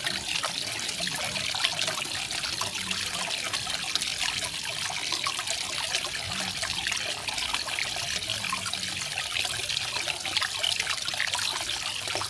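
Small garden waterfall: water falling and trickling in a steady hiss, flecked with many small splashes.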